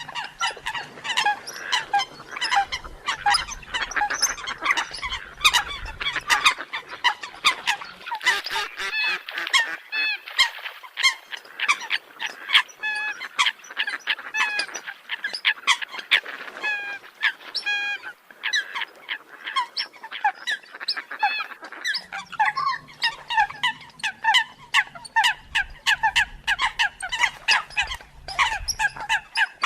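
Eurasian coots calling: a dense, unbroken run of short calls, several a second, with a faint low hum underneath during the first few seconds and again from about two-thirds of the way in.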